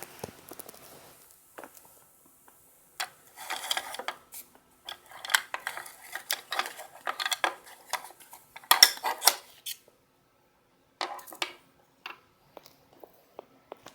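Irregular bursts of light clattering and rustling, as small objects are handled and rummaged through, with a sharper knock about nine seconds in.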